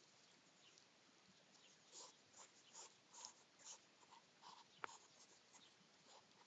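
Faint, rhythmic short noises from hedgehogs, about two to three a second, starting about two seconds in, with one sharp click near five seconds.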